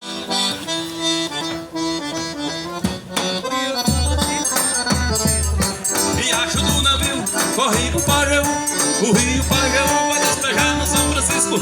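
Live forró instrumental intro: an accordion plays the melody, and about four seconds in a low bass drum (zabumba) beat and a high shaker-like rhythm come in under it.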